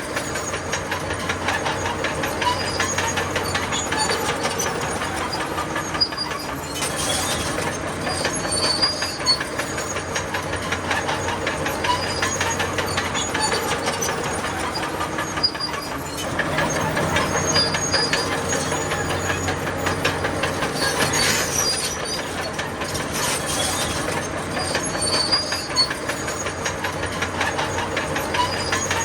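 Crawler bulldozer at work: a diesel engine running steadily under the clatter of its steel tracks, with short high squeaks from the track links every few seconds.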